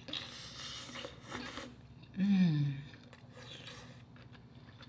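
Close-miked chewing of boiled lobster tail meat, wet smacking mouth sounds. About two seconds in comes a short hummed "mmm" of enjoyment that falls in pitch.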